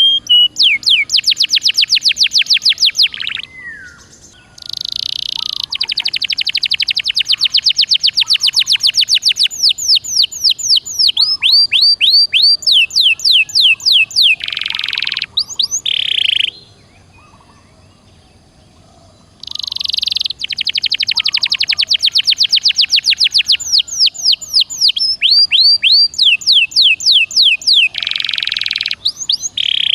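Domestic canary singing vigorously in long, rapid trills of repeated down-sweeping notes. It breaks off briefly about four seconds in and for about three seconds past the middle.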